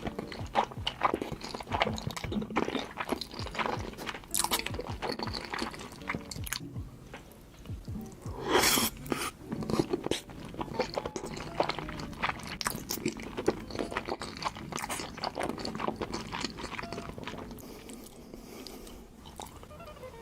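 Close-miked eating sounds from a mukbang: steady chewing with many small crunches and bites, and one louder crunch about nine seconds in.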